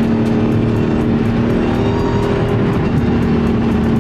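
Dodge Charger Hellcat's supercharged 6.2-litre HEMI V8 droning steadily at highway cruising speed, heard from inside the cabin, with tyre and road noise underneath.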